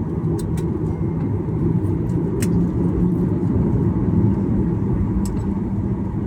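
Steady low rumble inside the cabin of a Boeing 737-800 rolling on the ground after landing, with a few light clicks.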